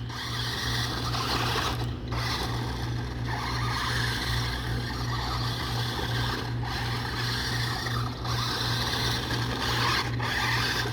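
New Bright toy-grade RC monster truck driving, its electric drive motor and plastic gears giving a steady whirring grind with a constant low hum. The sound drops out briefly four times as the throttle is let off.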